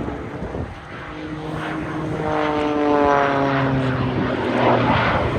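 Propeller-driven aerobatic aircraft flying past, the engine note falling in pitch as it goes by, loudest about three seconds in.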